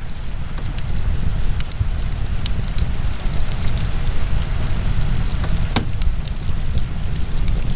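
Wood fire in a fireplace crackling, with scattered sharp pops over a steady low rumble; one louder pop comes a little before six seconds in.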